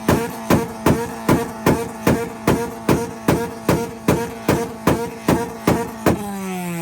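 Car engine held on a two-step launch limiter, a steady engine note with sharp exhaust bangs about two and a half times a second. Near the end the bangs stop and the revs fall away.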